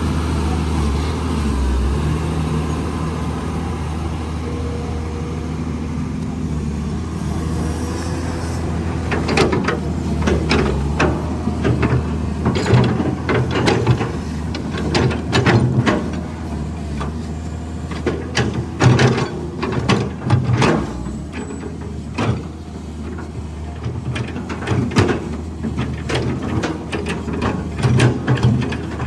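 Caterpillar 320 excavator's diesel engine running steadily. From about a third of the way in, repeated knocks and clatter sound over it as the bucket works rocks.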